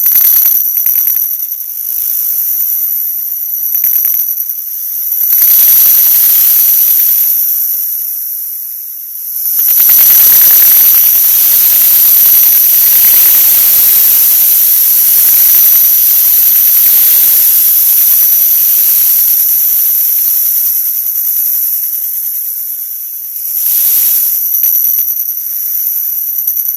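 A 'wha wha' sound effect sped up so many times over that it has turned into loud static-like hiss with steady high-pitched whistling tones. From about ten seconds in, the noise spreads down into low pitches and stays full, then thins out again near the end.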